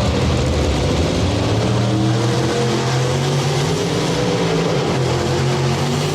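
A competition pulling truck's engine running loud and steady at high revs, its pitch wavering slowly up and down.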